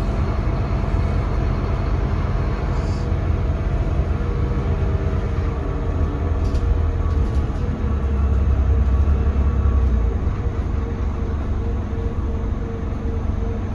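Cabin sound on board a Scania K320CB bus under way: its five-cylinder Scania DC9 diesel and drivetrain give a steady low rumble mixed with road noise. The rumble grows louder for a couple of seconds past the middle. A couple of brief rattles come near the start.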